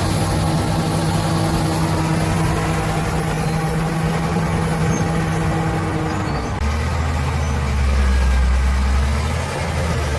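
Bulldozer's heavy diesel engine running steadily, its note dropping to a deeper tone about six and a half seconds in.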